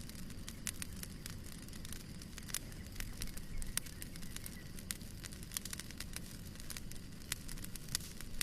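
Fire crackling in a fireplace: frequent, irregular sharp snaps and pops over a steady low rumble of burning.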